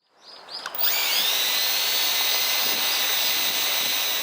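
Electric power tool triggered in a few short blips, then spun up to full speed and held at a steady high whine.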